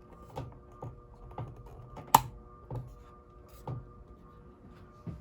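Emerson plastic designer ceiling fan coasting down, giving a soft click that repeats and spaces out as the blades slow. One sharper click comes about two seconds in, over a faint steady hum.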